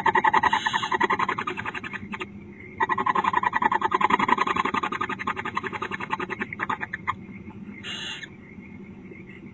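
Barn owl giving rapid chittering calls, a fast run of ticking pulses, while a newly hatched chick is being fed. Two runs, about two seconds and then about four seconds long with a short break between, and a brief rasping burst about eight seconds in.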